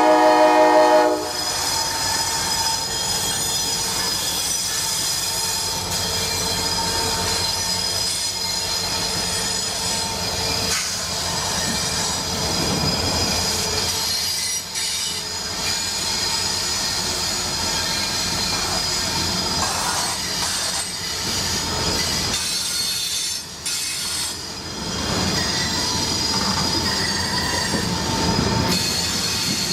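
A Norfolk Southern train's air horn ends about a second in. Then the train rolls past with steel wheels squealing on the rail.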